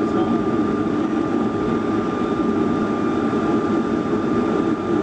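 Steady cabin noise of a Boeing 757 airliner heard from inside the passenger cabin: a constant low rumble of engines and airflow with a thin steady whine above it.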